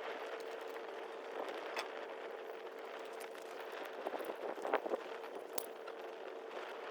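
Wood campfire of dry firewood burning: a steady hiss with scattered sharp pops and crackles, several bunched together about two-thirds of the way through. A faint steady hum runs underneath.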